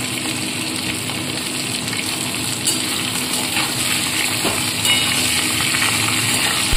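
Hot mustard oil sizzling in an aluminium kadai as fish heads and a tempering of cumin, bay leaves and green chillies fry. A metal spatula stirs them, clinking against the pan a few times.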